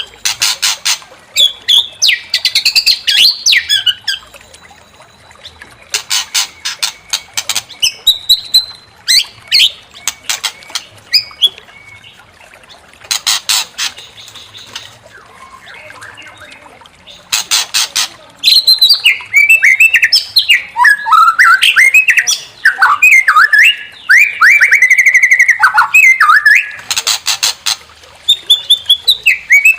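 White-rumped shama (murai batu) in loud, aggressive song: harsh rattling bursts alternate with fast, varied whistled phrases full of up-and-down glides, and a long dense run of whistles fills the second half.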